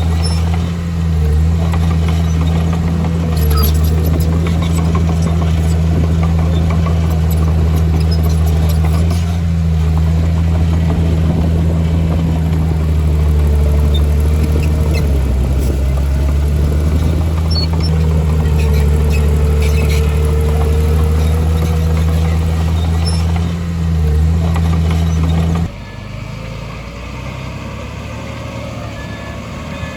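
Heavy diesel engine of earthmoving machinery running steadily under load, with scattered light clanks and knocks. Near the end the engine sound drops suddenly to a quieter, rougher running.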